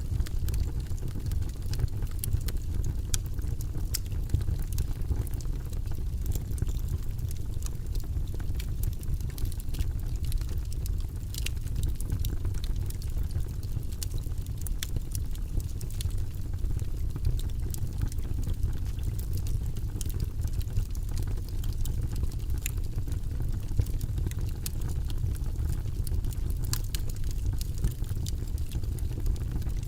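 Logs burning in a fireplace: a steady low noise from the flames, with frequent sharp crackles and pops.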